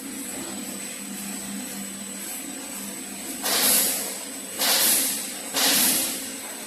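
Pneumatic flip machine venting compressed air: three loud hisses about a second apart, each fading away, over a steady low machine hum.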